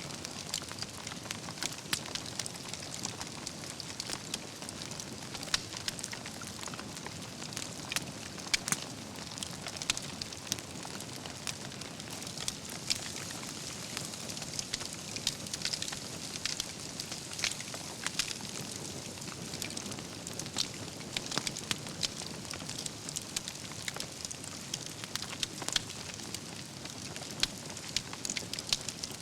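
Wood campfire burning, with a steady low hiss and frequent sharp, irregular crackles and pops from the burning logs.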